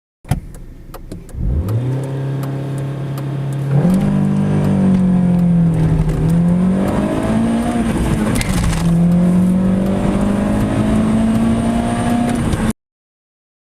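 Volkswagen Polo Mk3 four-cylinder engine accelerating hard in a full-throttle 0-100 km/h run. The note rises in pitch in each gear and falls back at the gear changes, the clearest drop about nine seconds in, with a few light clicks in the first second or so.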